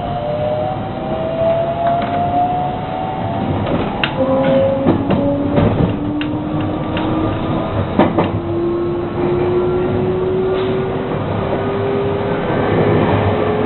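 JR West 223 series electric train, running sound with its Hitachi inverter-driven traction motors whining in steadily rising tones as it gathers speed. The whine shifts to a new lower tone about four seconds in and climbs again, over a steady rolling rumble, with a run of sharp wheel clacks over rail joints or points between about four and eight seconds in.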